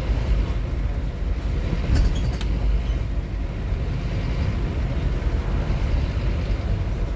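Scania N230UD OmniCity double-decker bus on the move, heard from inside: a steady low rumble of its diesel engine and road noise, with a brief high hiss about two seconds in.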